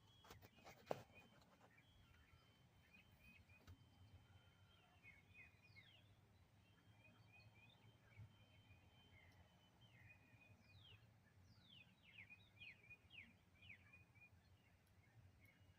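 Faint birdsong: many short chirps and quick falling whistles, with a single sharp click about a second in.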